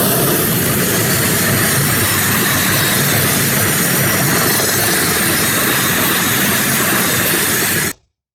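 Freight train passing close by: a loud, steady rumble and rushing rail noise that cuts off suddenly near the end.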